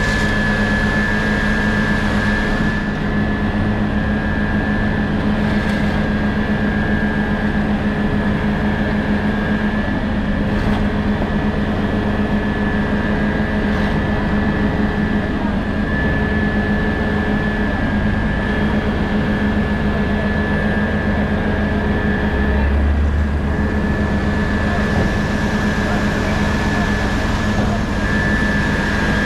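An engine running steadily under a dense low rumble, with a constant high whine over it and a brief swell in the rumble near the end.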